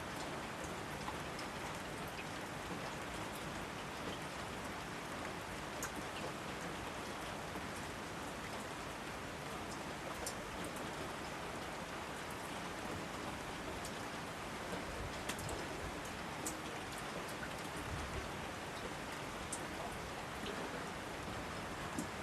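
Steady rainfall: an even hiss of rain with scattered drips and drops pattering on leaves and surfaces.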